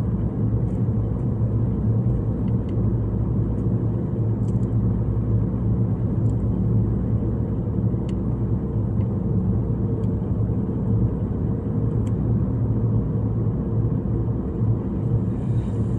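Steady road and engine noise heard from inside a moving car's cabin: a continuous low rumble.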